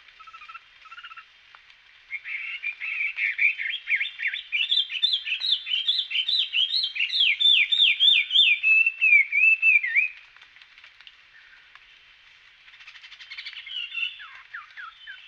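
A small songbird singing: a fast, loud run of sharp down-slurred notes lasting about eight seconds and ending in a few wavering notes, then a shorter, fainter phrase near the end.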